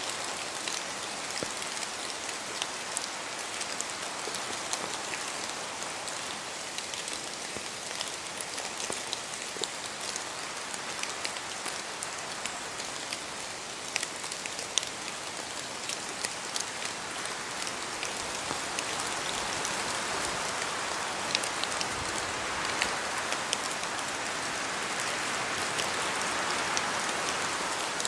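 Steady rain in a forest, a continuous hiss with many sharp individual drops falling from the trees. The rain swells a little louder in the second half.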